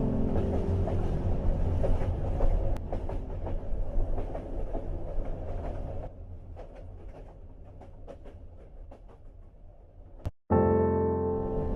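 Train-ride ambience, a steady low rumble with rail clicks, layered under soft music. It fades down after about six seconds and drops out briefly near the end. Then the next track comes in suddenly with music over the train rumble.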